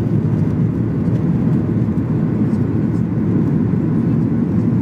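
Steady low cabin noise of a Ryanair Boeing 737-800 in flight: its CFM56-7B engines and the airflow past the fuselage, heard from a window seat behind the wing.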